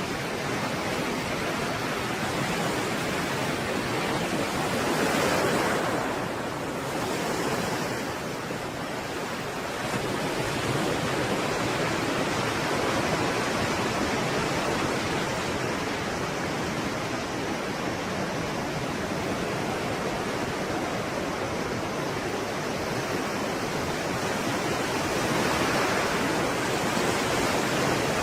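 Stormy sea surf: a continuous rush of breaking waves that swells louder about five seconds in and again near the end.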